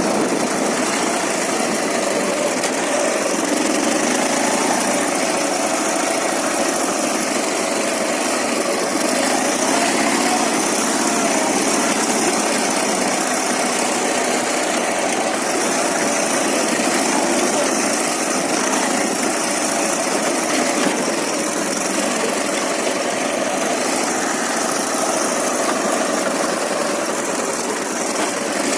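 Ural motorcycle's flat-twin engine running steadily.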